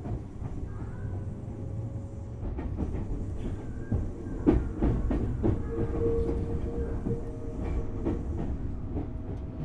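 Tobu Railway Series 6050 resistor-controlled electric train running, heard from inside the car: a steady low rumble with the clicks of wheels over rail joints, which cluster into a brief clatter about four and a half seconds in.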